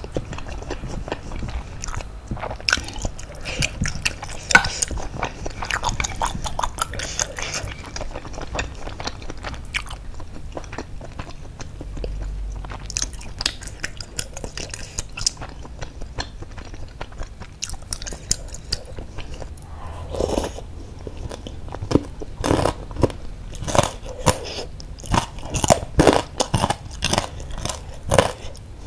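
A person chewing and biting mouthfuls of baso aci (chewy tapioca-flour balls) with noodles and basreng (fried meatball strips) in spicy broth, with crunching and wet mouth clicks. The clicks come thicker and louder in the last third.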